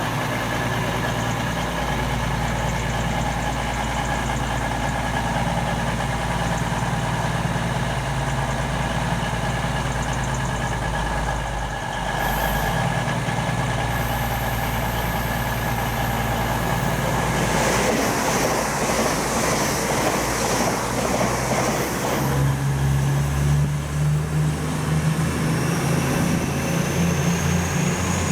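Train at the platform running with a steady low drone; from about 17 seconds in a louder rush of noise, then deeper tones and a slowly rising high whine near the end as a train moves.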